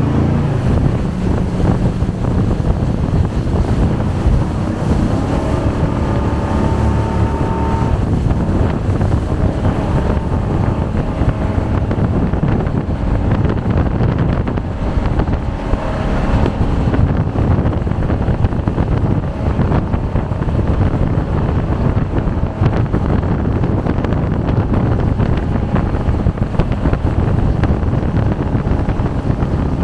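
Jet boat running at speed: the engine and water jet make a loud, steady noise, with heavy wind buffeting the microphone.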